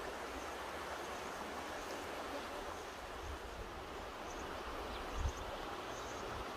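Mountain river rushing steadily, an even wash of water noise, with two brief low rumbles a little after halfway and near the end.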